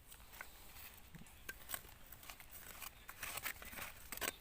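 Dry leaf litter and soil crackling and rustling in irregular small clicks, as hed phao mushrooms are dug and picked out of the ground by hand or with a small spade.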